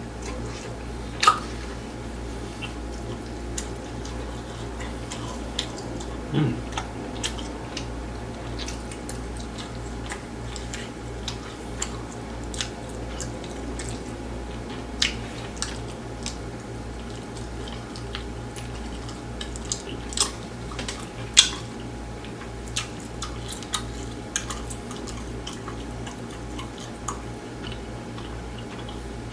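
Close-miked chewing and mouth sounds of someone eating grilled chicken: scattered wet clicks and smacks, a few louder, over a steady low hum.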